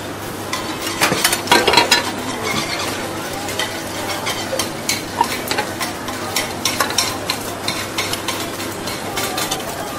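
Food sizzling in a hot pan, stirred with a metal spatula that scrapes and clicks against the pan many times. The scraping is busiest about one to two seconds in.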